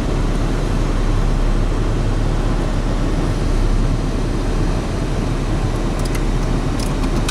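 Steady in-cabin vehicle noise: the engine running with a constant low rumble, with a few faint clicks near the end.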